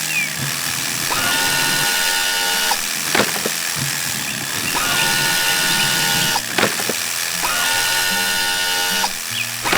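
Mechanical whirring and ratcheting sound effects, like a power drill, in cycles about every three and a half seconds with a sharp click between them, over background music.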